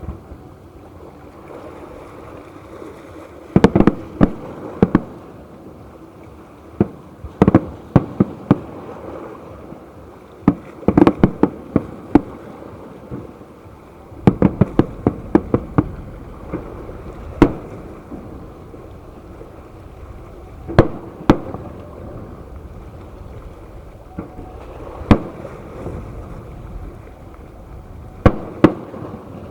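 Fireworks show: aerial shells bursting with sharp bangs in irregular volleys of several quick reports, thinning to single bangs in the second half, over a steady background rumble.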